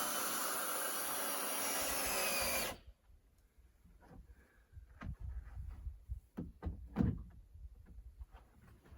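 A power tool runs steadily and stops abruptly about three seconds in, followed by scattered knocks and thumps of wood being handled.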